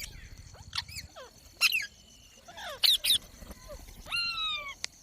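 Green ringneck parrot calling: several short, sharp squawks that fall in pitch, then one longer screech near the end.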